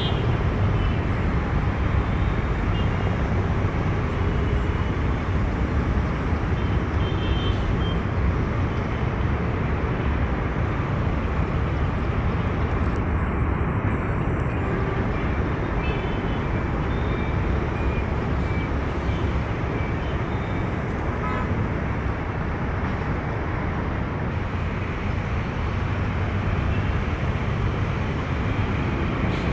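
Steady low rumble of distant engines and traffic, even throughout with no single vehicle passing.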